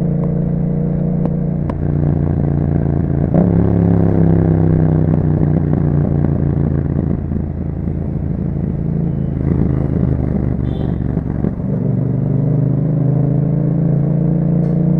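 2021 Yamaha MT-07's 689 cc parallel-twin engine running through an aftermarket Akrapovic exhaust with a dB killer fitted, heard while riding. The revs climb sharply about three seconds in, vary through the middle, and climb again near the end.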